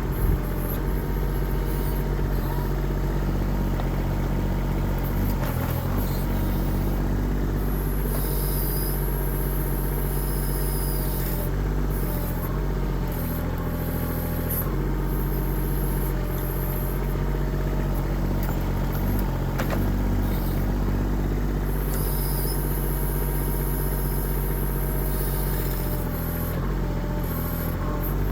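Kubota diesel engine of a 1.6-ton mini excavator running steadily, its note shifting a few times as the machine works. Bursts of high hiss come and go over the top.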